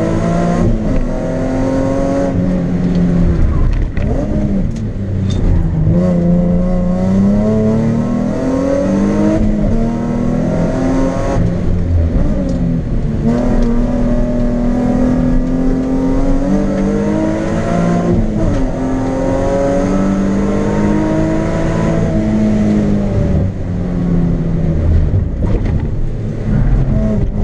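Nissan 350Z's 3.5-litre V6, heard from inside the cabin, pulling hard up a hillclimb course. The engine note climbs with revs, then dips or breaks at each gear change or lift, again and again.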